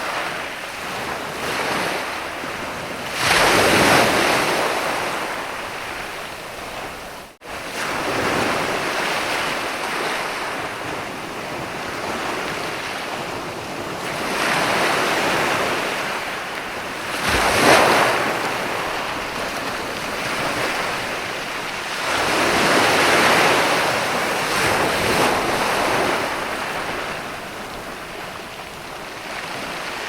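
Sea waves breaking and washing up a sandy beach, a steady rushing surf that swells into louder crashes about four seconds in, around eighteen seconds and again in the twenties. A momentary dropout in the sound about seven seconds in.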